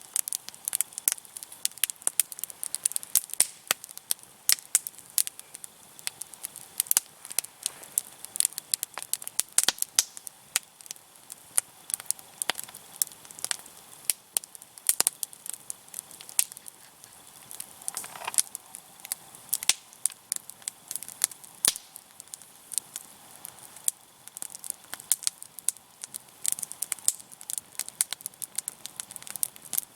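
Wood campfire crackling and popping, a constant irregular stream of sharp snaps over a soft hiss.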